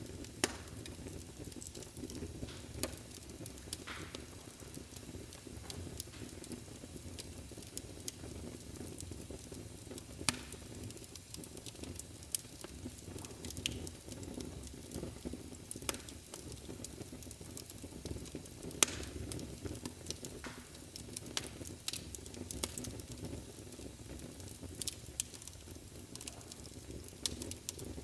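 Wood fire burning in a fireplace: a steady low rush of flames with scattered crackles and occasional sharper pops.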